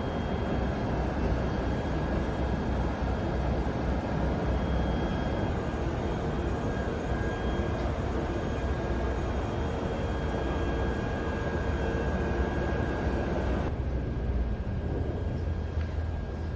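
Electric train running on the line: a steady rumble with faint steady whining tones above it. About fourteen seconds in, the high hiss drops away while the low rumble carries on.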